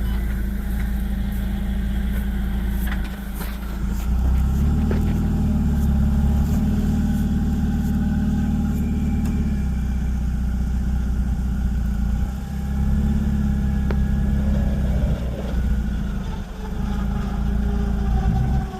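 Jeep engine running as it crawls off-road. It gets louder for two stretches of several seconds each, with a short drop between them.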